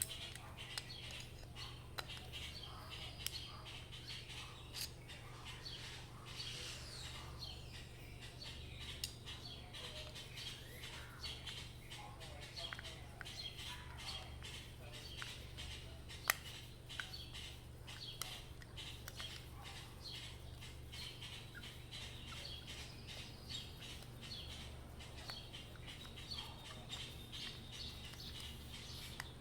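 Faint bird chirping in the background, with scattered small clicks and taps of tools and small metal carburettor parts being handled, over a steady low hum.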